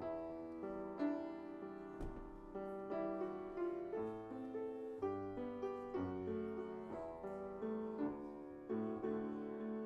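Piano playing a slow, gentle piece of sustained chords and melody notes, a new note struck about every half second, with a single small knock about two seconds in.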